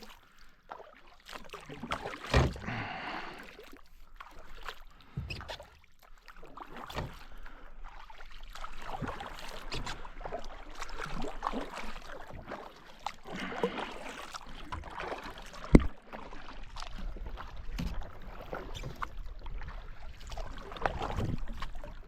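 Kayak paddling: paddle blades dipping and splashing in the water in an uneven series of strokes, with a sharp knock about two-thirds of the way through.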